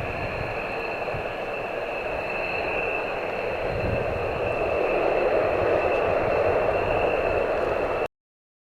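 Boeing 737-800's CFM56 jet engines running: a steady rushing roar with a high fan whine over it, growing a little louder partway through, then cut off abruptly to silence near the end.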